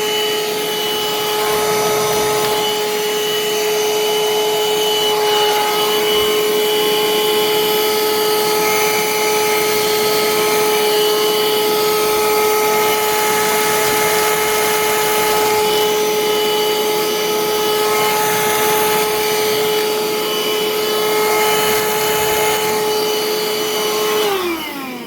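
Green Parkside PHSSA 20-LI A1 20 V cordless wet-and-dry vacuum cleaner running at full suction with a steady high whine over airflow hiss during a suction test. Near the end it is switched off, and the whine falls in pitch as the motor winds down.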